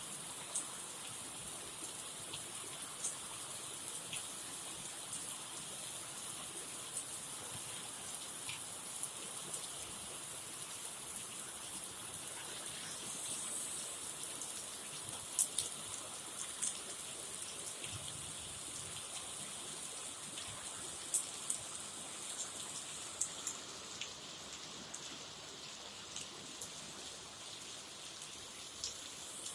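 Heavy rain falling in a steady hiss, with scattered sharp drop impacts ticking through it.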